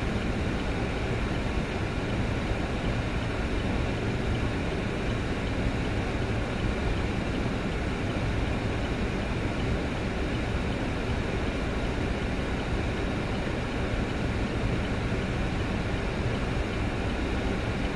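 A car driving along a road: steady road and engine noise with a low rumble.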